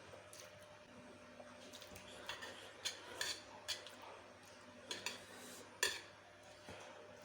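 Eating utensil clinking and scraping against a bowl of noodles: a series of short sharp clicks, the loudest about six seconds in.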